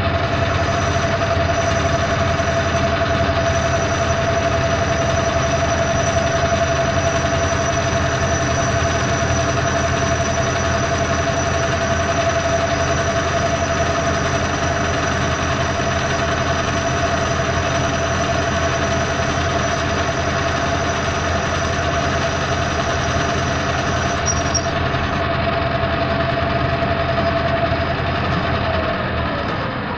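Metal lathe running under power, taking a light calibration cut on stainless steel bar: a loud, steady machine noise with a constant whine. Near the end it is switched off and the whine drops in pitch as the spindle winds down.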